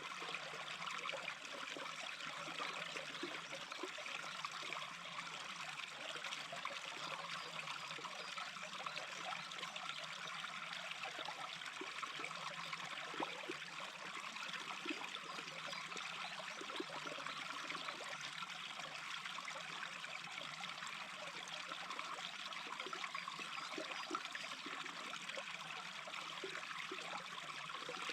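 Small stream babbling steadily, with little splashes and gurgles all through.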